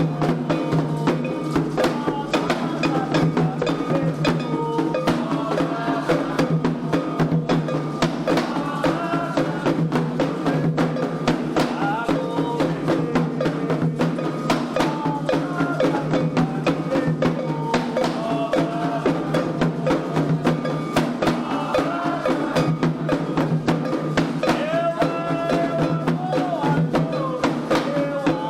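Candomblé xirê music: atabaque hand drums playing a dense, driving rhythm with a metal agogô bell, and voices singing over them.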